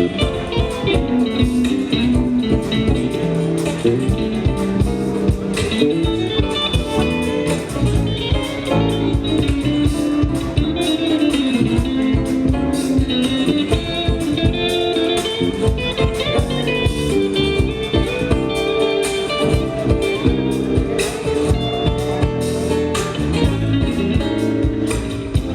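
Live band playing, with guitar to the fore over a steady drum beat.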